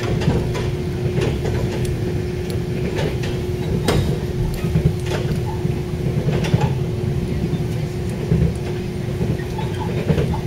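Passenger train running, heard from inside the carriage: a steady low rumble with a constant hum and scattered sharp clicks and rattles.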